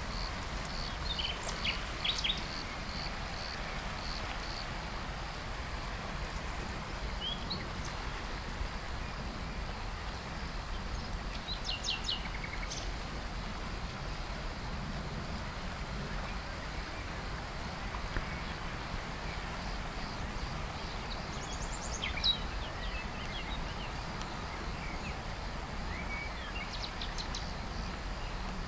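Outdoor nature ambience: a steady high-pitched insect chirring, with a few short bird chirps scattered through, over a low steady rumble.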